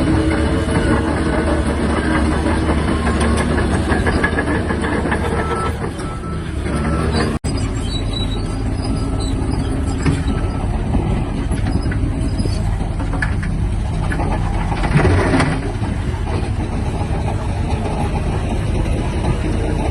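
Shantui DH17-C3 bulldozer working: diesel engine running steadily with the steel tracks clattering. The sound breaks off abruptly about seven seconds in and resumes at much the same level.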